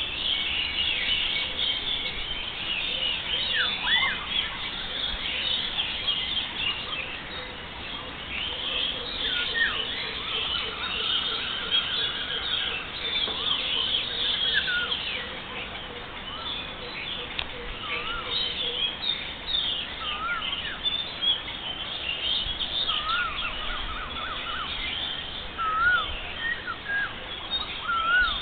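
Many birds singing and calling at once: a dense run of high chirps overlapping throughout, with clearer short whistled notes that rise in pitch.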